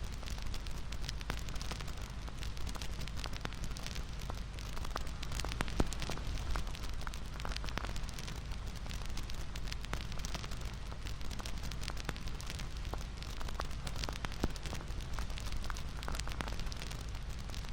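Wood fire crackling steadily, with many small irregular pops and a sharper pop about six seconds in, over a steady low rumble.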